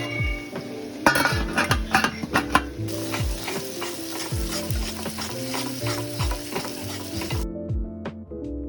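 Food sizzling and frying in a pan, with a run of sharp clattering clicks from stirring about a second in. Background music with a steady beat plays throughout, and the sizzling cuts off near the end, leaving only the music.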